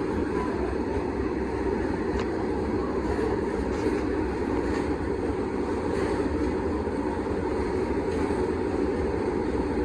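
Freight train rolling slowly past: a steady rumble of steel wheels on rails, with a few faint clicks.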